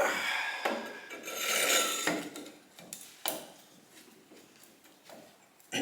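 Rubbing and scraping of hard parts being handled, loudest in the first two seconds, with a sharp knock about three seconds in and another at the end.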